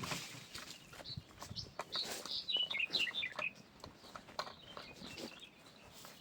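A small bird chirps a quick run of high notes about two seconds in, lasting about a second and a half. Scattered knocks and taps are heard around it, the loudest at the very start.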